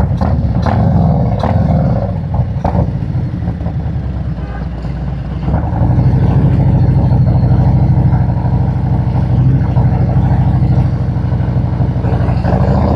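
Harley-Davidson V-twin engine running while riding, its pitch shifting with a few sharp clicks over the first three seconds, then settling about six seconds in into a louder, steady drone as the bike holds speed.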